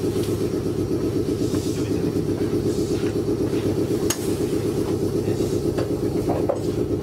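Meitetsu 6800 series electric train running between stations, heard from the driving cab: a steady running rumble with a fast, even pulsing. A single sharp click comes about four seconds in.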